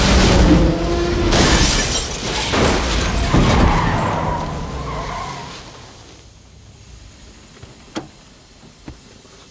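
A car crash: tyres skidding and metal and glass smashing through a run of heavy impacts, then the noise dies away after about five seconds, leaving only a few small clinks of settling debris.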